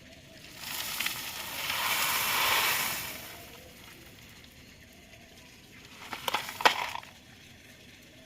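Small gravel stones pouring and sliding for about three seconds, swelling and then fading. A few seconds later comes a short clatter of sharp clicks.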